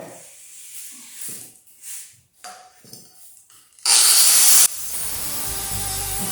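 Scattered light knocks and scraping from handling steel, then about four seconds in a loud, short hiss lasting under a second, followed by background music over a steady low sound.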